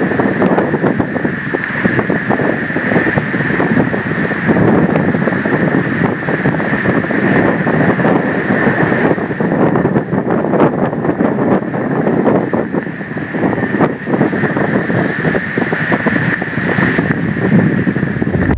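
Strong gale-force wind buffeting the phone's microphone in a dense, crackling rush, with a steady high tone running through it.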